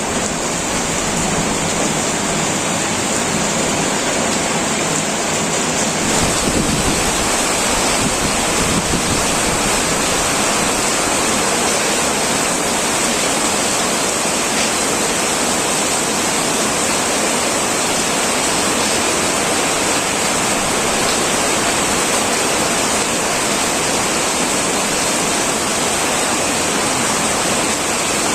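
Heavy rain pouring steadily onto a tin roof, a dense unbroken hiss of drops. About six seconds in it becomes slightly fuller and heavier.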